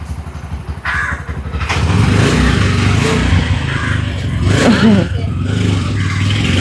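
Auto-rickshaw engine running with a rapid low putter, growing louder from about two seconds in as it pulls away.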